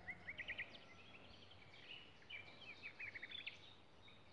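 Small birds chirping faintly, quick runs of short high notes, one in the first second and another near the middle.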